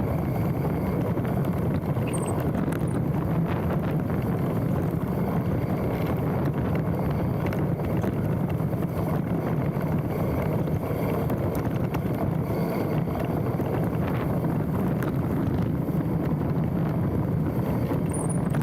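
Mountain bike rolling downhill on a dirt trail: steady wind rush on a handlebar-mounted camera's microphone over tyre rumble, with constant small rattles and clicks from the bike.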